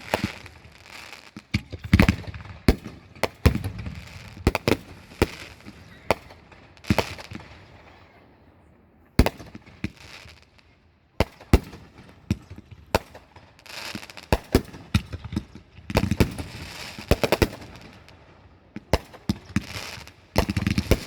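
Fireworks going off: a rapid, irregular run of sharp bangs with crackling between them, easing off briefly near the middle and then starting up again.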